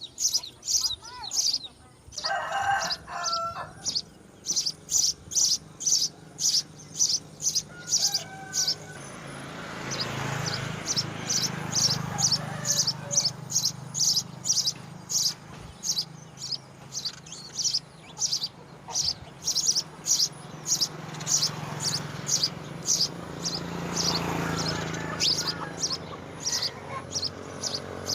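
A small bird chirping in a steady run of short, high notes, about two a second, with a low steady hum underneath from about ten seconds in.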